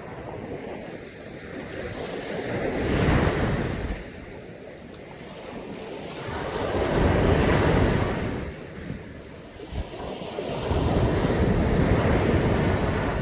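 Caribbean Sea surf washing onto a beach in three surges about four seconds apart, each rising and falling, with wind buffeting the microphone.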